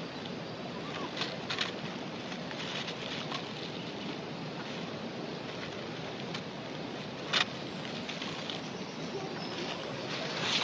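Steady rush of flowing river water, broken by a few sharp clicks or knocks, the loudest about seven seconds in.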